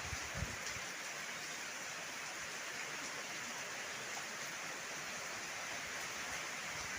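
Heavy rain falling in a steady, even hiss, with a few gusts of wind buffeting the microphone in the first second.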